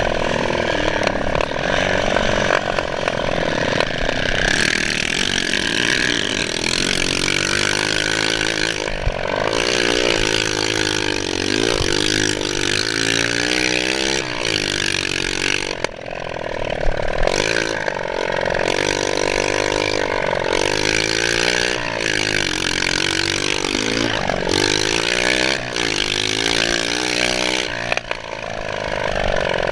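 Motocross dirt bike engine running under way, its pitch rising and falling again and again as it is revved and eased off, over a steady rushing hiss.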